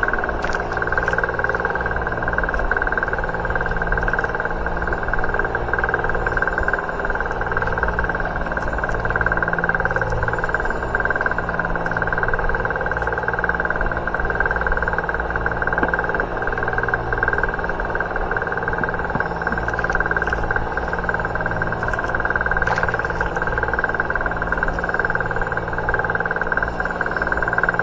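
Boat engine running steadily at a constant speed, with an even high whine over its low drone.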